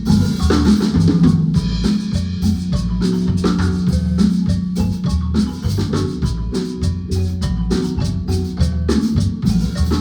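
Guatemalan marimba band playing with a drum kit: quick repeated marimba notes over a steady beat and low bass notes.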